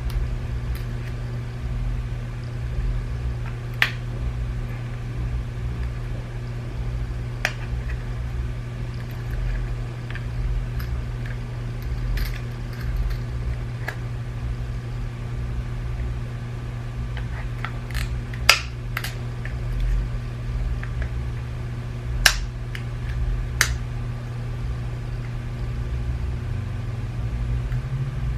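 Scattered sharp clicks of small plastic parts and clips being worked apart as a BMW iDrive controller is disassembled, over a steady low hum.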